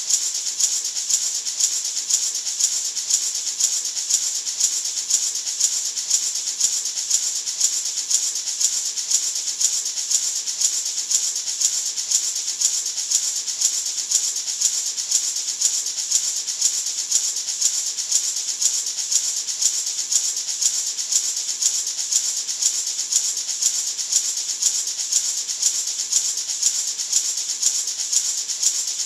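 Gourd maraca shaken in a steady, even rhythm, a continuous dry rattle of seeds inside the gourd.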